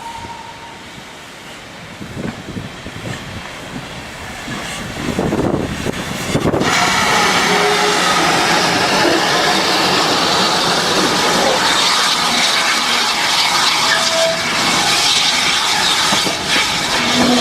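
Heritage railway train passing close by: a quiet approach that builds, then a sudden jump to loud, steady running noise about six and a half seconds in, with a few brief squeaks from the wheels or rails.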